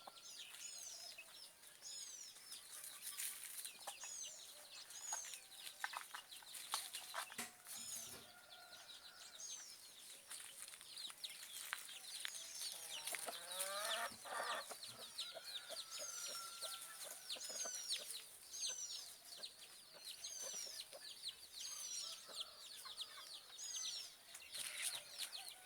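Casacas-de-couro (caatinga cacholotes) calling loudly and repeatedly in a squabble, a steady stream of short, high chattering notes with a quick run of notes near the middle.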